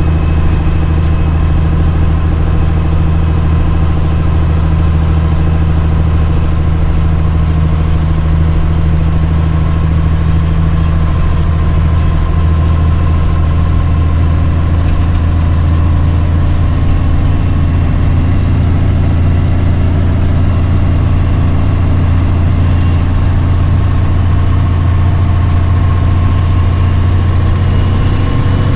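Diesel semi-truck engine running steadily at low speed with a deep, even drone.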